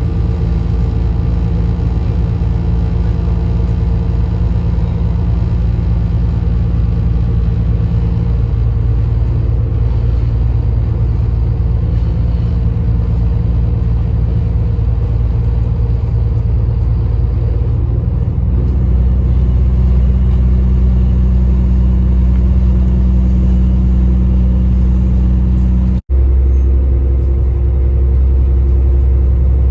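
Loud, steady engine rumble with a low hum that grows stronger about two-thirds of the way through, then breaks off for an instant near the end.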